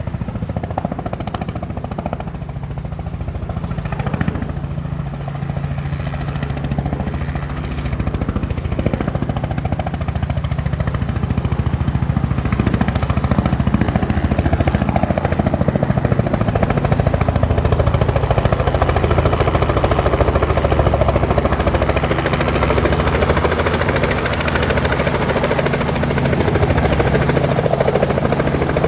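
Helicopter running, its noise growing louder over the first dozen seconds or so and then holding steady.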